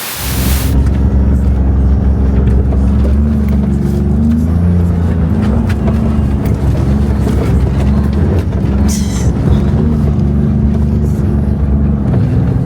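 Truck engine running steadily, its pitch rising and falling slightly now and then.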